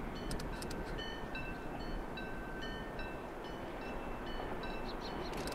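Distant train running along the line: a steady, even rumble. Over it are short high whistled notes at changing pitches and a few sharp clicks, most near the start and near the end.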